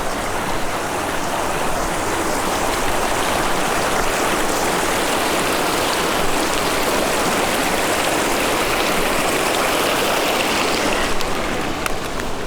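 Mountain stream rushing, a steady hiss of running water that swells a little through the middle and eases near the end.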